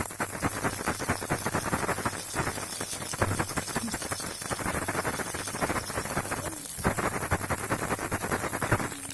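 A baby rattle shaken continuously, its beads giving a dense run of rapid clicks with brief breaks a couple of times, over a low steady hum and hiss.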